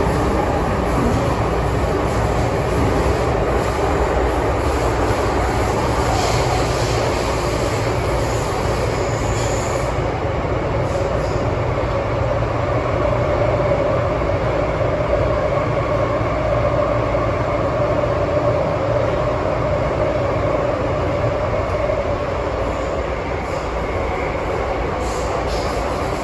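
MTR M-train electric multiple unit running on the line: a steady rumble of wheels and running gear. A faint steady whine comes in about halfway through and fades out again.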